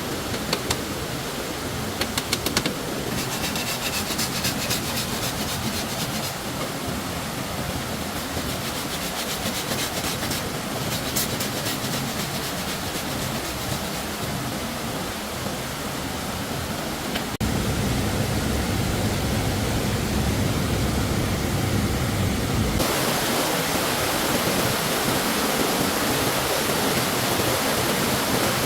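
Stream water rushing steadily, with bursts of rapid ticking strokes from hand work a few seconds in and again about ten seconds in. The water sound shifts abruptly twice, louder and lower, then brighter.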